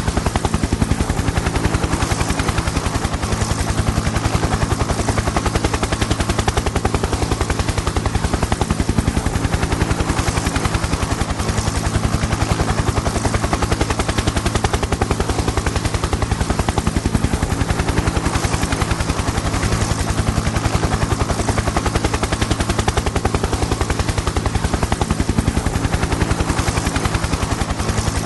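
Helicopter in flight: a steady, rapid chopping of the rotor blades over a constant engine and turbine drone.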